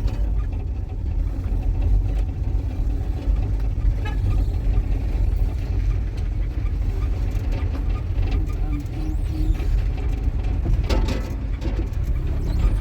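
Car running along with a steady low rumble of engine and road noise.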